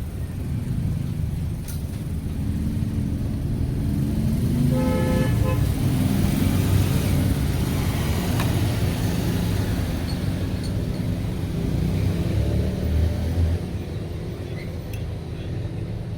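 Road traffic rumbling past, swelling and then dropping off about 13 seconds in, with a vehicle horn sounding once for about a second, around five seconds in.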